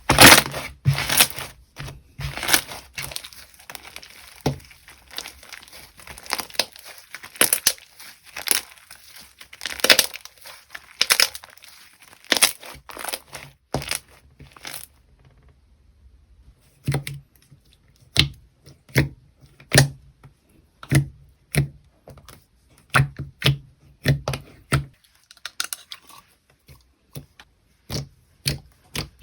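Slime being squeezed, pressed and stretched by hand, giving dense crackling pops and clicks. About halfway through there is a short pause, then a steady run of sharp pops about twice a second.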